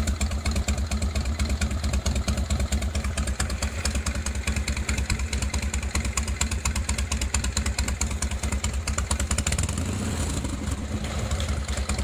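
Harley-Davidson Evo V-twin running at a lumpy, loping idle, its exhaust note a deep, uneven beat through a Thunderheader two-into-one exhaust.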